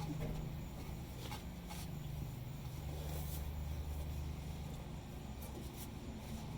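Light scraping and a few faint taps as a new fuel pump is worked onto its mounting bracket, over a steady low hum.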